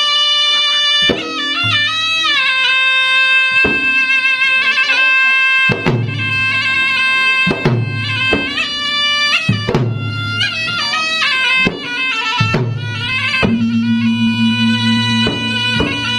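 Traditional South Sulawesi gendang drum ensemble music. A reedy wind instrument plays a continuous ornamented melody over sharp drum strokes every second or two, with deep booming drum notes joining about halfway through.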